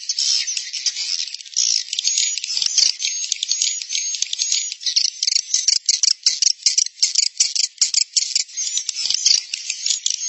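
Swiftlet colony twittering: a dense, continuous stream of rapid high chirps and clicks. This is a 'suara inap' roosting-call recording of the kind played from swiftlet houses to lure edible-nest swiftlets in to roost.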